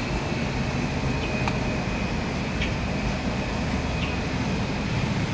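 Steady low rumble of a shopping cart being pushed along a supermarket floor, with a few faint ticks.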